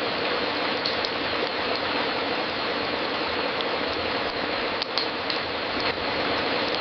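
Fireplace wood fire crackling: a steady hiss with scattered sharp pops, several of them close together about five seconds in.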